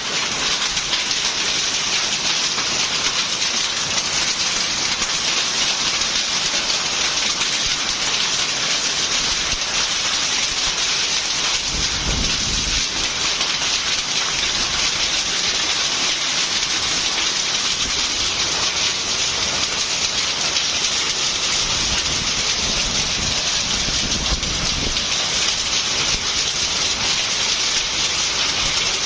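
Heavy rain mixed with hail falling steadily. A low rumble comes twice, around the middle and again near the end.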